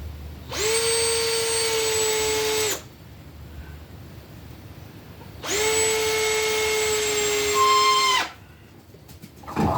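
Power drill running in two bursts of about two to three seconds each, with a steady whine.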